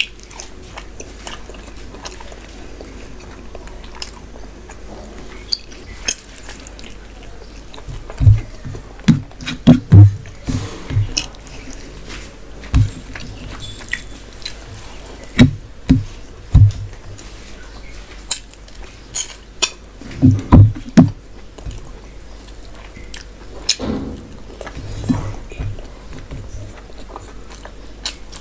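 Close-miked eating sounds of a person eating rice and curry with her hand: wet chewing and mouth noises in scattered short clusters of low thuds and clicks, with quieter gaps between.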